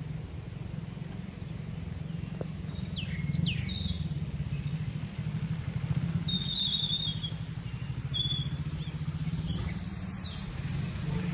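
A steady low engine hum, like a vehicle running, with birds chirping over it: two quick downward-sweeping calls about three seconds in, then a few short whistled notes later on.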